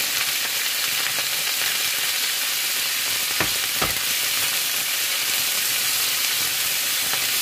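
Fresh mint leaves sizzling as they roast in a little oil in a non-stick frying pan, stirred with a wooden spatula: a steady hiss, with two quick knocks of the spatula against the pan about three and a half seconds in.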